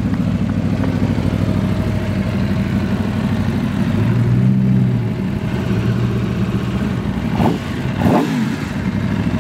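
A car engine running at low speed, swelling briefly about four seconds in, with two short sharp sweeps in pitch near the end.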